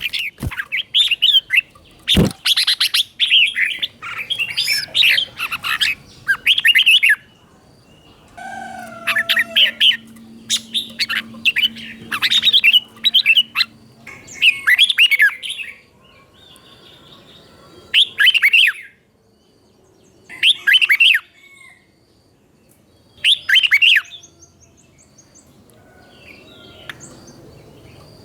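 Red-whiskered bulbul singing short whistled phrases in the doubled 'beun' style that caged bulbuls are trained to copy. The phrases come close together in the first half, then singly a few seconds apart. Two sharp knocks near the start.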